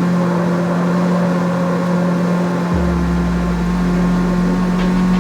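Car engine running at a steady speed with a constant-pitch hum; a deeper rumble joins about three seconds in.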